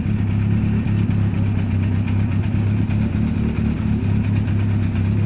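Mk2 Ford Escort historic rally car's engine idling steadily and loudly, with no revs.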